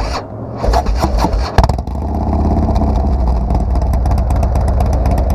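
Harley-Davidson Twin Cam 110 V-twin running through a Bassani Road Rage 2 two-into-one exhaust on a dyno. It is blipped a few times, then held at steady high revs under load from about two seconds in.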